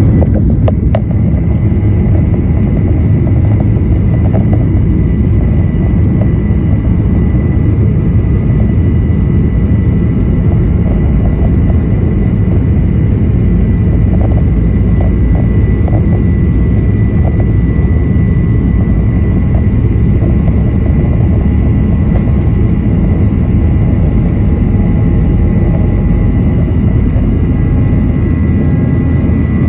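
Boeing 737-900ER's CFM56 jet engines running at high power during takeoff: a loud, steady low rumble with a thin, steady high whine over it.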